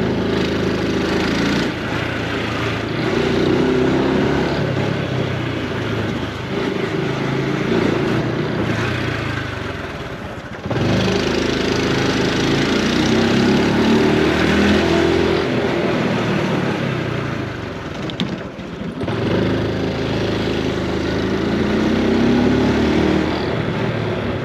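Honda Super Cub C125's single-cylinder four-stroke engine and exhaust under way, its pitch climbing as it accelerates and dropping back at each gear change, easing off twice before pulling away again.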